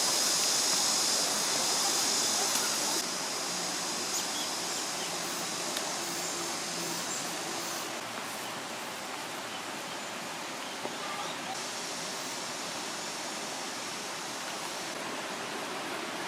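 Mountain stream water rushing over rocks, a steady noise that steps down a little in level about three seconds in, with faint distant voices.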